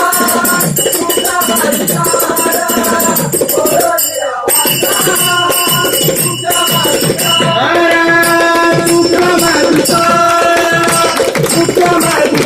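Devotional bhajan music: a melody over small hand cymbals and jingling percussion keeping a steady beat, with long held notes in the second half.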